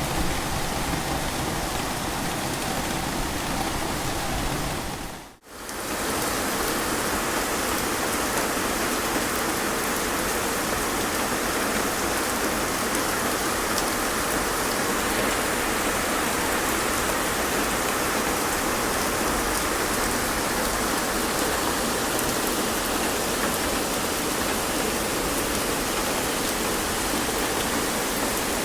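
Heavy rain pouring down steadily, with a brief dropout about five seconds in.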